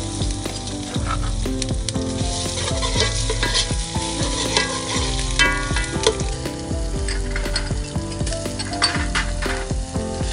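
Spice paste sizzling as it fries in oil in a steel pot, stirred with a metal ladle that scrapes and knocks against the pot now and then.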